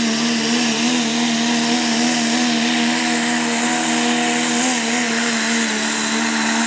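Diesel pulling truck's engine held at high, steady revs under full load as it drags the sled down the track.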